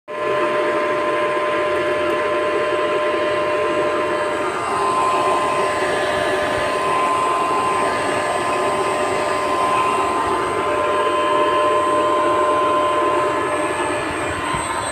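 Electric motor and cooling fan running steadily on a variable frequency drive under test, with a steady whine over the running noise.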